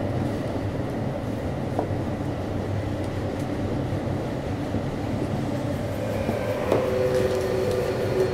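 Kintetsu 3220 series train running, heard inside motor car Mo 3821: a steady rumble of wheels on rail and running gear. Near the end a steady two-tone whine comes in over the rumble.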